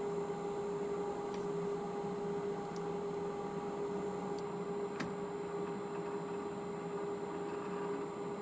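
Metal lathe running steadily with a steady hum and whine, taking a light finishing pass on crankshaft counterweights; a faint click about five seconds in.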